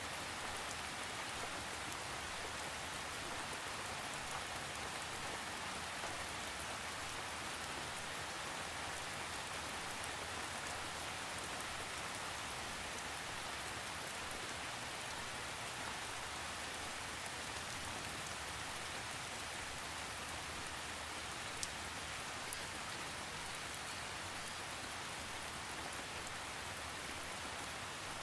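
Steady rain falling, an even hiss of many drops with faint scattered patters, and no thunder; one slightly sharper drop tick near the end.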